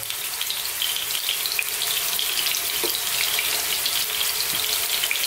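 Beef meatballs shallow-frying in oil in a frying pan: a steady sizzle with fine crackling.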